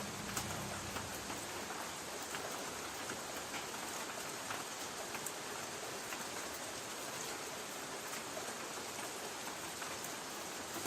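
Light rain falling on a tin roof: a steady hiss with many small separate drop taps on the metal.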